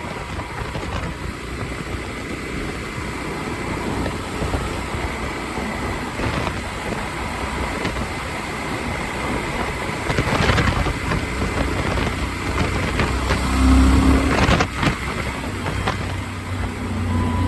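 Wind rushing and buffeting over a helmet-mounted phone's microphone on a moving motorcycle, with road and engine noise underneath; a few stronger gusts in the second half.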